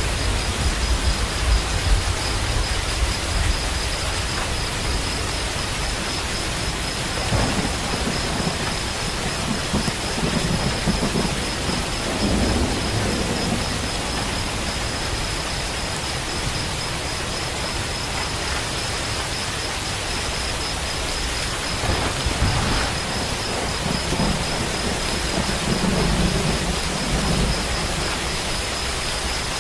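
Steady heavy rain with rolling thunder: low rumbles swell and fade several times over the hiss of the rain.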